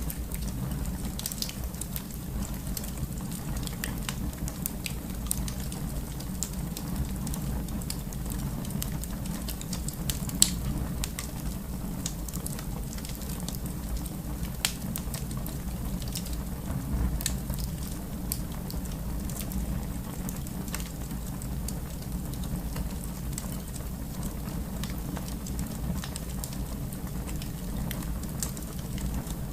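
Wood fire burning in a fireplace: a steady low rumble of flames with scattered sharp crackles and pops, one louder pop about ten seconds in.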